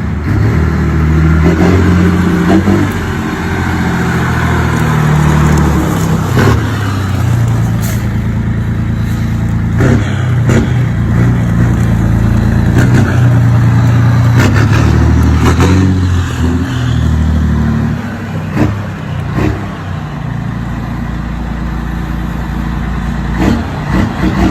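Scania 111 truck's straight-six diesel engine running loud, revved up and down several times, with the engine pitch stepping between higher and lower speeds. Short sharp pops or knocks come through now and then.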